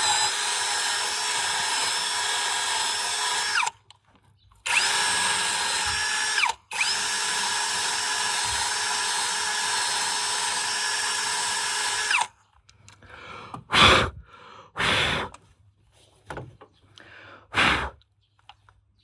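Handheld electric power tool motor running at a steady pitch in three runs, about four, two and five and a half seconds long, each ending with a short spin-down. Afterwards come a few sharp knocks and clatters.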